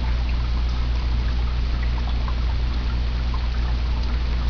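Water pouring and trickling steadily down a small three-tier waterfall in a reptile enclosure, fed by an aquarium filter used as the pump, over a steady low hum.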